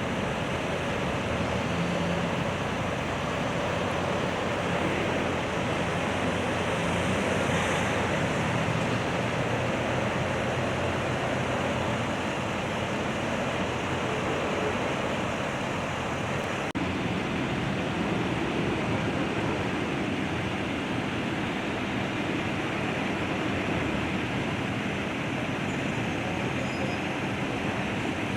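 Steady outdoor road-traffic noise, an even rumbling hiss of passing and idling vehicles with no sudden events.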